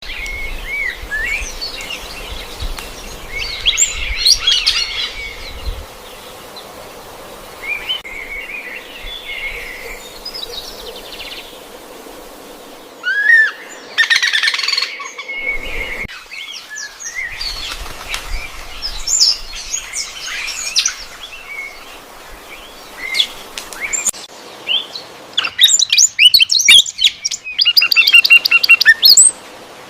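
Birds chirping and calling: short whistled chirps and sliding notes come in clusters, ending in a quick rapid-fire trill of repeated notes.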